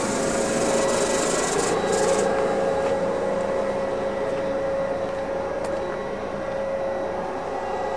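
Steady hum with a hiss from a London Underground A Stock train standing at the platform, holding one even pitch with no rise or fall.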